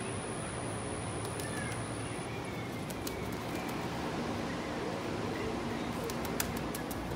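Steady outdoor background noise with a few faint bird calls, and several faint sharp clicks near the end.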